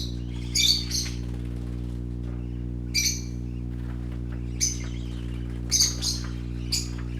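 Pet parakeets giving short high chirps, about six scattered calls, over a steady low hum.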